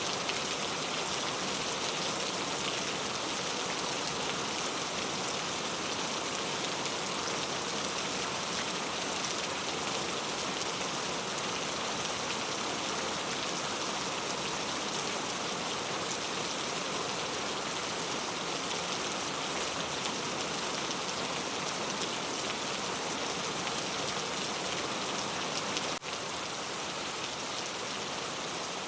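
Steady rain ambience, an even hiss of rainfall with a brief dip in level near the end.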